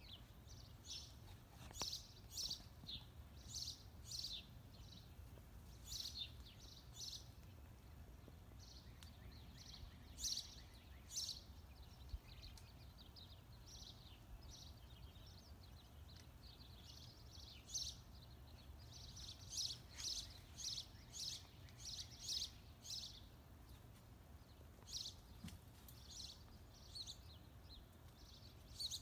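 Small birds chirping outdoors: short, high chirps coming in clusters again and again, over a faint steady low rumble.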